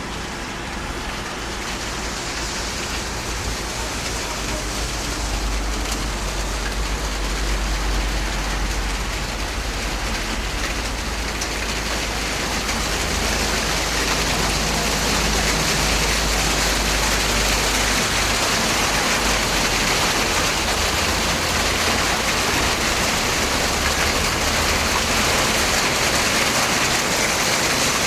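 Heavy rain pouring down steadily in a downpour, growing heavier over the first dozen seconds or so and then holding at full strength.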